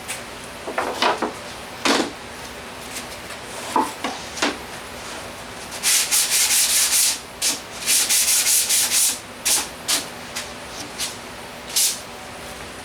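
Wood being sanded by hand: a few scattered scrapes and knocks, then two runs of quick back-and-forth strokes about halfway through, and one last stroke near the end.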